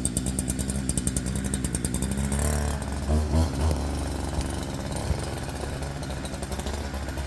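Two-stroke chainsaw engine running, with a few quick changes of throttle about three seconds in.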